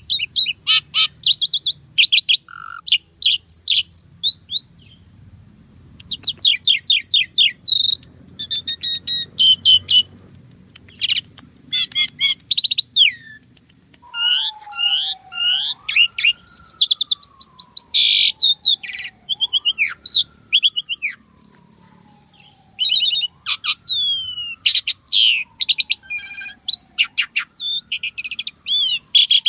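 Asian pied starling singing: bursts of rapid, shrill chirps and whistles broken by short pauses. From about halfway, a lower whistle that slides down and swoops back up repeats roughly every four seconds under the chatter.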